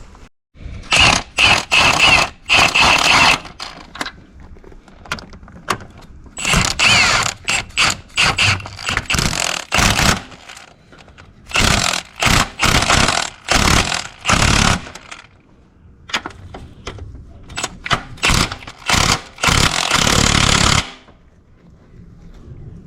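A power tool running in repeated bursts, in four groups of a few seconds each with short stops between, with a slight squeal in places.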